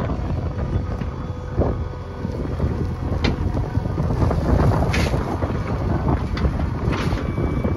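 Backhoe loader engine running with a steady low rumble and wind on the microphone, with a few sharp knocks spaced about every second and a half.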